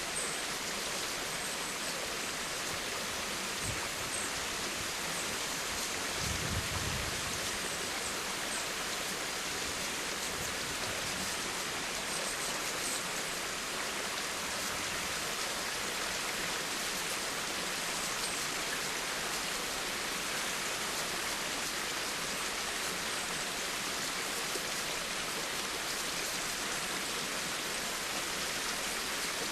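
Steady rain falling, an even hiss of many fine drops, with a brief low rumble about six seconds in.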